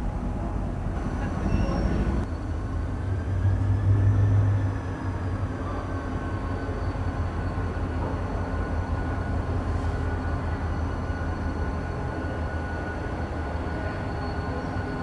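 A train's steady low rumble and hum, swelling louder for a moment a few seconds in, with a faint whine that rises and then falls.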